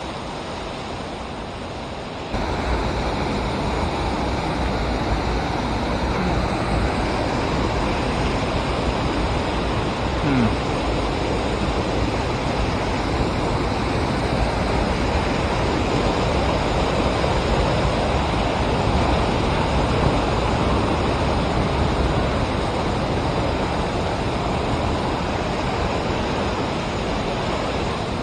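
Steady rush of river water pouring over a dam and through the rapids below it, jumping louder about two seconds in.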